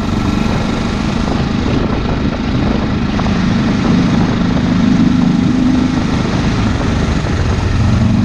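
SWM Superdual X motorcycle's single-cylinder engine running while riding, a steady loud drone whose pitch lifts slightly in the middle and drops lower near the end.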